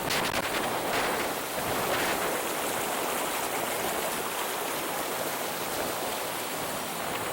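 Rushing water: a steady, even roar of fast-flowing mountain water.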